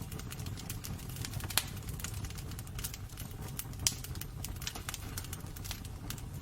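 Wood burning in a fireplace: a steady low rumble of flames with irregular crackles, and two louder pops about a second and a half and about four seconds in.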